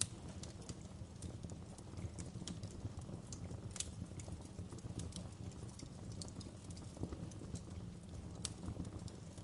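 Wood fire burning in a fireplace: logs crackling and popping with irregular sharp snaps, two louder pops about four and eight and a half seconds in, over a steady low rumble of the flames.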